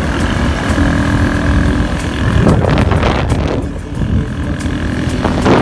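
Motorcycle taxi's engine running under way, with wind buffeting the microphone. Two louder rushes of noise come about halfway through and near the end.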